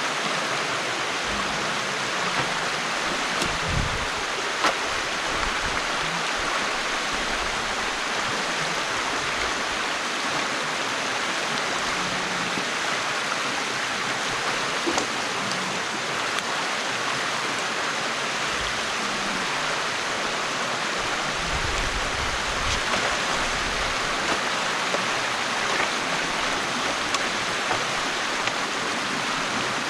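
Steady rush of stream water flowing through a beaver dam that is being opened up by hand, with a few faint knocks scattered through it.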